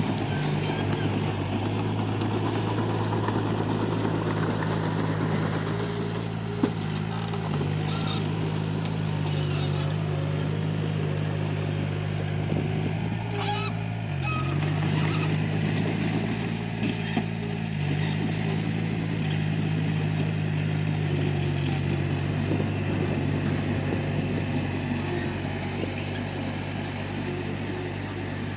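Komatsu D31P bulldozer's diesel engine running steadily, its pitch dipping briefly twice in the second half, with a single sharp knock about seven seconds in and some clanking near the middle.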